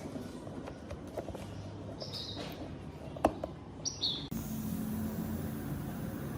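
A small bird chirping twice in short, high calls, among scattered light clicks and one sharp tap.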